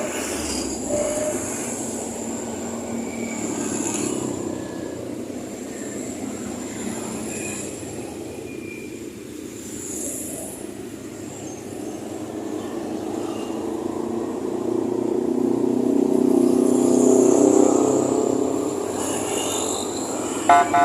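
The electric motor and gearbox of a radio-controlled miniature truck running steadily, growing louder about three-quarters of the way through.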